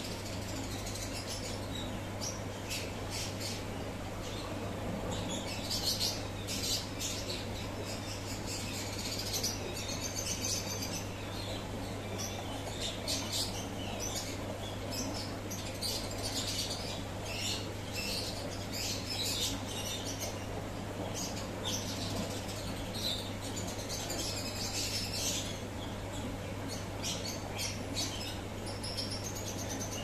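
Small birds chirping and twittering in quick, irregular bursts, over a steady low hum.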